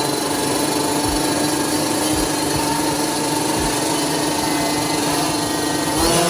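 Small two-stroke youth dirt bike engine running at steady high revs close to the microphone, with a few low thumps. The engine note changes near the end.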